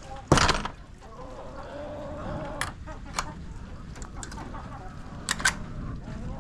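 Hens clucking faintly. A loud, short clatter comes just after the start, followed by a few sharp clicks.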